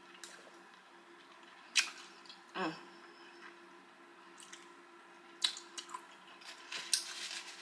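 A person chewing and biting food at close range: quiet chewing with a few sharp, wet mouth clicks and smacks spread through it. A faint steady hum runs underneath.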